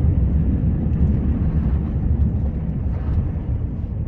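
Snowplow vehicle's engine running steadily while driving.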